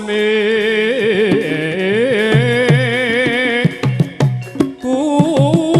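Javanese gamelan music for an ebeg dance: a singer holds a wavering, ornamented vocal line in Javanese over the ensemble. From about two seconds in, kendang drum strokes and sharp strikes come in beneath the singing.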